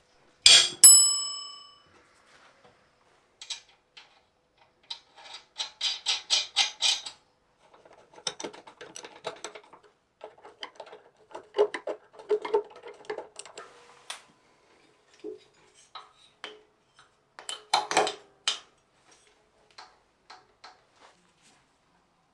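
A sharp metallic clang about half a second in, ringing briefly as it dies away, followed by irregular clinks, clicks and rattles of small metal parts and tools being handled, with a louder clatter near the end.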